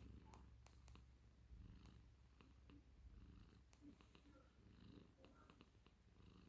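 A Scottish Fold cat purring faintly and steadily, with a few faint clicks.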